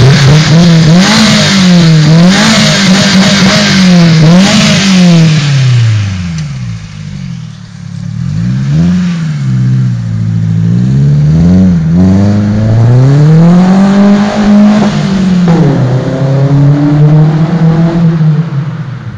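Exhaust of a Peugeot 206 GTI's 2.0 litre four-cylinder engine through an Invidia GT300 aftermarket muffler, revved again and again. There are quick blips for the first few seconds, then slower, longer rises and falls in pitch.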